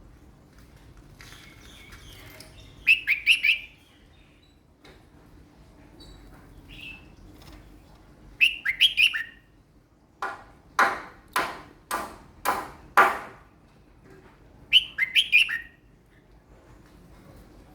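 A caged red-whiskered bulbul in moult singing short, quick chirped phrases three times. In the middle comes a run of about six loud, harsh strokes.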